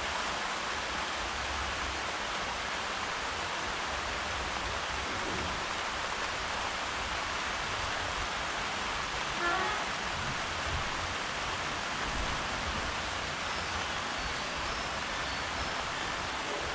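Steady rain falling, an even hiss, with a few faint high chirps about halfway through and again near the end.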